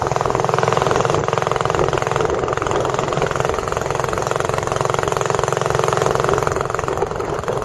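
Tourist boat's engine running steadily at an even speed.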